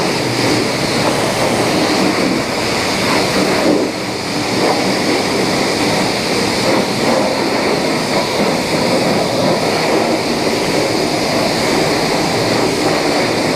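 Steady, loud rushing noise with no clear rhythm or pitch, of the kind made by wind on the microphone or passing traffic.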